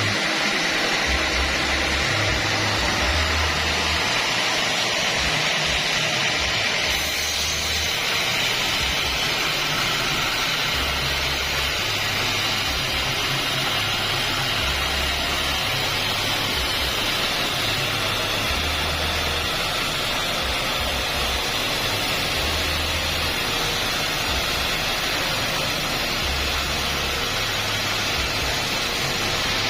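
Band sawmill running steadily, a loud, even, hiss-like machine noise as it saws acacia wood; the sound brightens slightly about seven seconds in.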